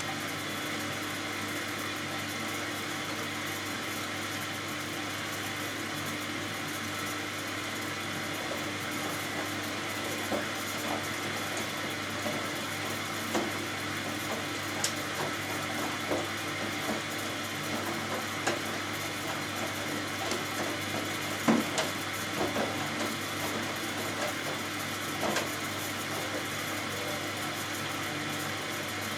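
Hoover Dynamic Next front-loading washing machine in its first rinse: the drum motor hums steadily as the drum turns, with irregular soft knocks and splashes of wet laundry and water tumbling through the middle of the stretch.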